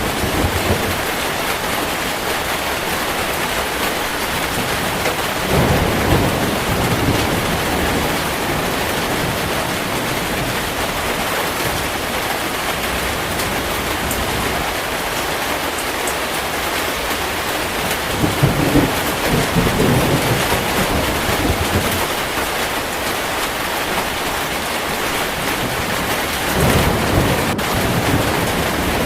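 Heavy rain falling steadily, with thunder rumbling low three times: a few seconds in, about midway, and near the end.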